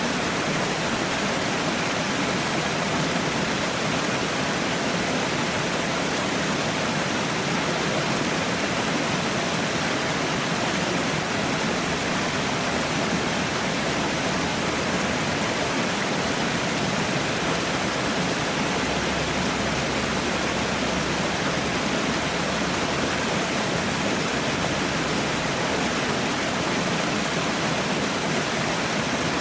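Water falling in a waterfall: a steady, even rush of splashing water that does not change.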